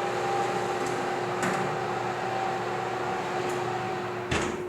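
A kitchen appliance's motor running with a steady hum and a faint whine, cutting off with a click near the end.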